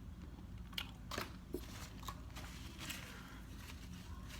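Seafood being handled and eaten: a few sharp clicks and crackles, irregularly spaced, over a steady low hum.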